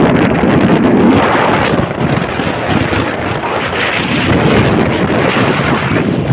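Strong wind buffeting the microphone: a loud, continuous rumbling rush with no clear tones.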